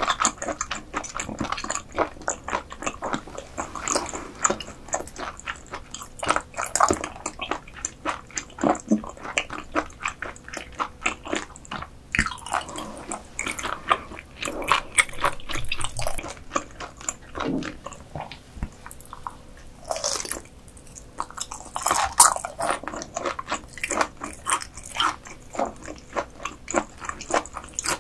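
Close-miked ASMR eating of croaker dishes: steady biting and wet chewing, with dense rapid mouth clicks and squelches.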